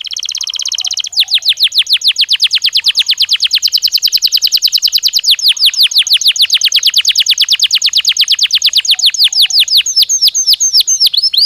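Domestic canary singing a long, fast trill of repeated falling whistled notes, about ten a second, after a short buzzing roll; the notes change near the end.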